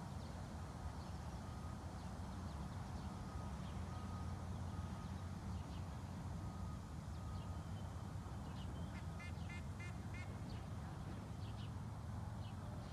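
Birds calling along a lakeshore: scattered short chirps, then a quick run of five or six repeated calls about nine seconds in, over a steady low rumble.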